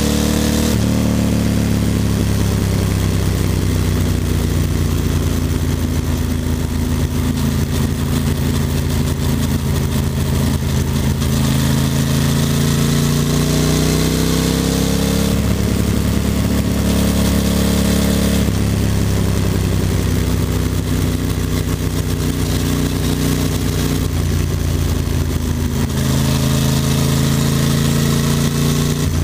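Ducati Monster 620's air-cooled V-twin engine running under way, its note rising and falling in pitch several times, with wind rushing past.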